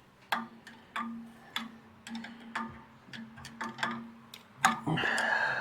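Irregular metallic clicks and clinks of a wrench working a fitting loose, over a steady low hum. A louder scraping clatter comes near the end.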